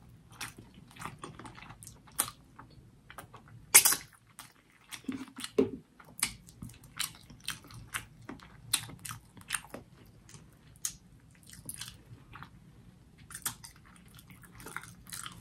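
Close-miked chewing of grilled peri-peri chicken: irregular wet mouth clicks and lip smacks a few times a second, with a sharper smack about four seconds in.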